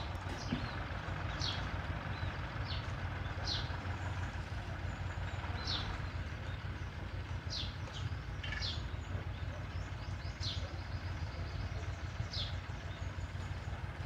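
A small bird's short, high chirps, each a quick falling note, repeated every second or two over a steady low rumble.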